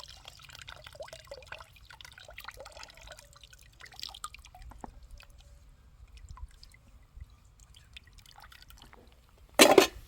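Liquid dripping and trickling with small scattered ticks, then one sudden loud burst of noise near the end.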